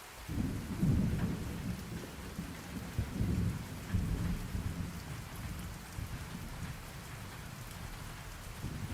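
Steady rain with a low rolling thunder rumble that starts a moment in, swells twice and fades out over the next few seconds; a second rumble begins near the end.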